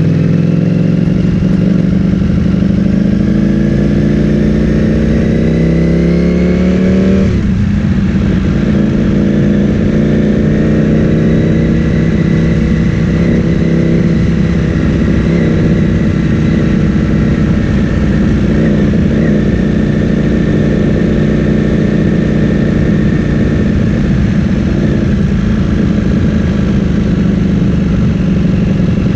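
Ducati Streetfighter V4S's V4 engine through an Akrapovic full-system exhaust, riding under way: the pitch rises steadily as the bike accelerates, drops sharply about seven seconds in, then climbs slowly and levels off into a steady run.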